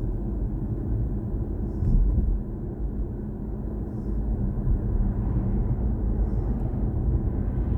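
Steady low road and tyre rumble of a BMW i4 M50 electric car driving along, heard from inside the cabin, with a slight swell about two seconds in.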